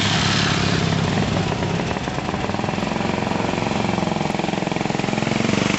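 Vintage motorcycle engine running close by, with a rapid, even beat of firing pulses.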